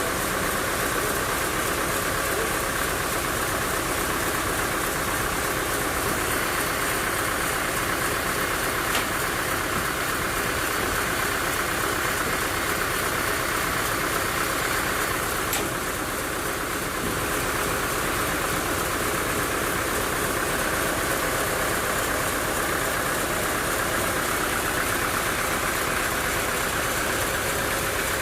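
Sawmill machinery running steadily, a continuous engine-driven drone.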